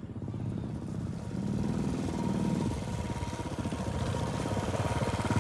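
Motorcycle engine running while riding, its note rising and getting louder about two seconds in, with a faint steady whine over it in the second half.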